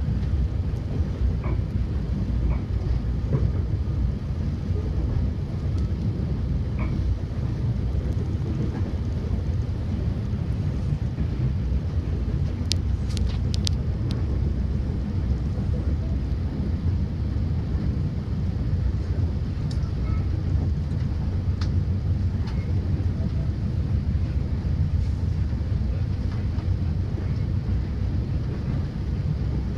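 Vitória–Minas train in motion: a steady low rumble, with a quick cluster of sharp clicks about 13 seconds in.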